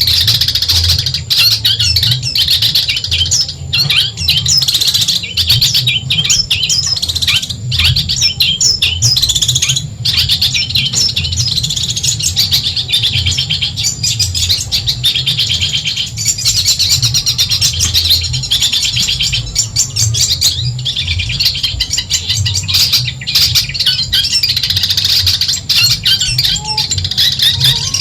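Long-tailed shrike (cendet) singing a continuous, rapid chattering song of fast, high notes with hardly a break.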